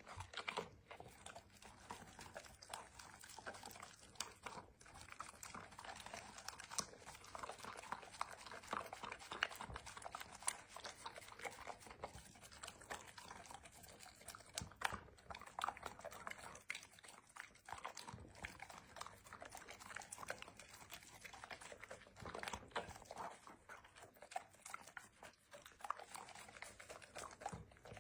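A chocolate Labrador eating from its bowl: a steady run of quick crunching chews and clicks with brief pauses.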